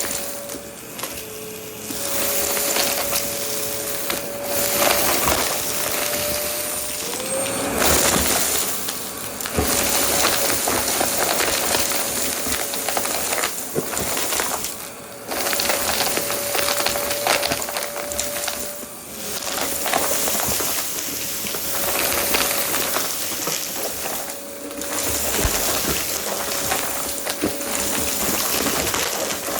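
Vacuum cleaner running with a steady motor whine while sucking up dry debris that crackles and rattles up the nozzle. The whine dips and wavers in pitch a few times, as the nozzle is briefly loaded.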